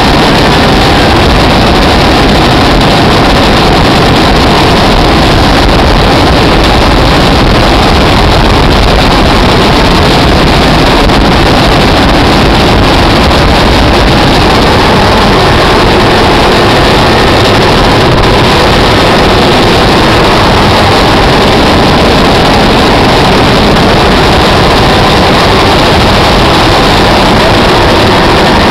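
Military helicopter's engine and rotor noise, very loud and steady without a break.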